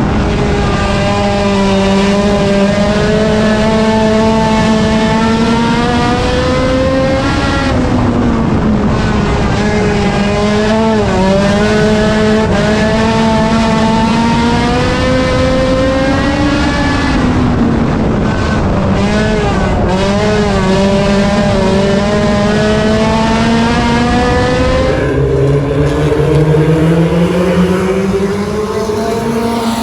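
Race car engine held at high revs, its pitch dipping and climbing again and again as the throttle is lifted and reapplied. Near the end the pitch drops sharply and climbs back up.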